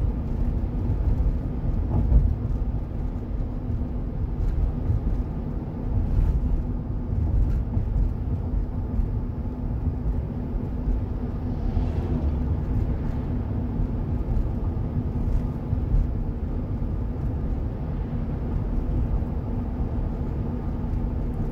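Steady low rumble heard from inside a car cabin, with a faint steady hum, as a freight train of autorack cars rolls past alongside.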